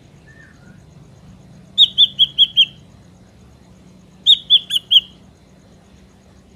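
Ashy drongo calling: two quick runs of sharp, high, clipped notes, five in the first run and four in the second, over a faint background hiss.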